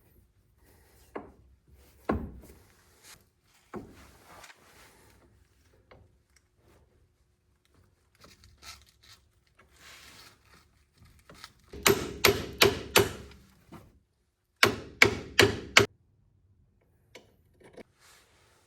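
Hammer tapping in two quick runs of about five sharp strikes each, after a few scattered clunks and rubbing of parts being handled.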